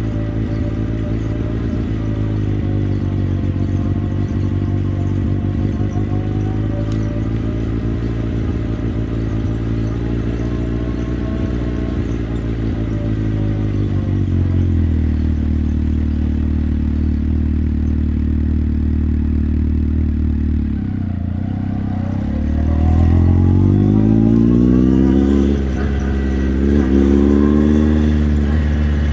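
Motorcycle engine running at a steady speed, settling to a lower, even note about halfway through. Near the end it accelerates, rising in pitch twice with a brief drop between, as through a gear change.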